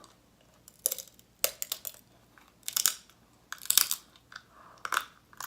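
Close-up eating sounds from a seafood meal: a series of short, sharp crunches and crackles, about seven spread over a few seconds, from chewing and breaking into the food.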